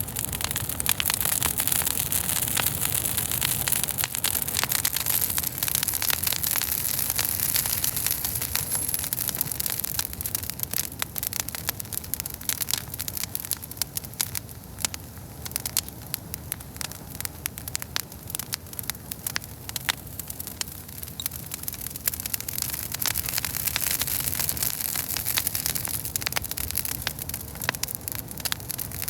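Wood campfire burning, crackling and popping in dense, irregular snaps over a steady hiss; the crackles thin out for a while in the middle, then pick up again.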